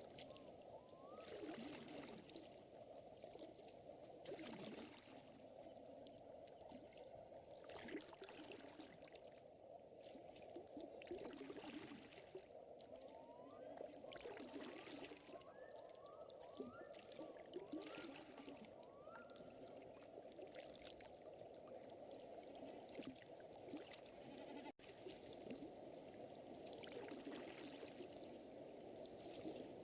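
Faint lakeside ambience: water trickling and lapping softly, with a run of short rising chirp calls, most of them in the middle stretch.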